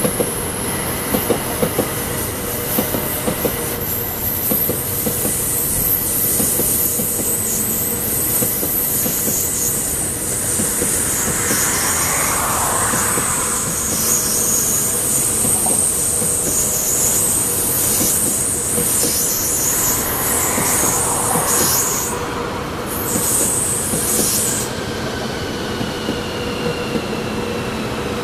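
CRH380AL high-speed electric train rolling slowly into the station, with a steady rumble and clatter of its wheels on the rails. A high squeal from the wheels runs through most of the pass and stops a few seconds before the end.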